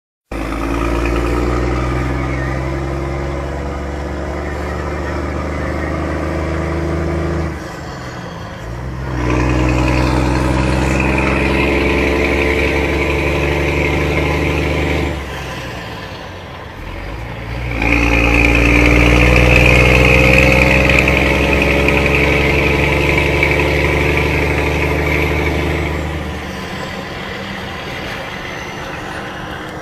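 Scania truck's diesel engine pulling hard in three long stretches, its pitch rising slowly in each, with a drop in sound between them about eight and sixteen seconds in, then settling to a lower, steady running near the end.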